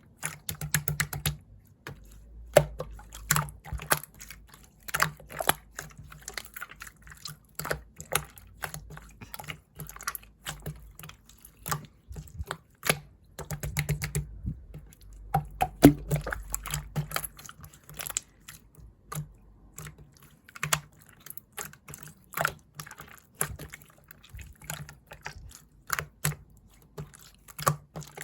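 Clear slime being squished and pressed by hand, making irregular wet clicking and popping sounds.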